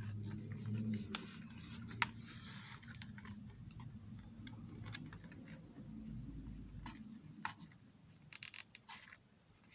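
A few light, separate clicks and taps, like small parts being handled on a workbench, over a faint low hum.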